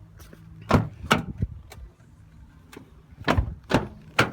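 Sharp clunks and knocks from a car's body panels and catches being handled: three about a second in and three more near the end.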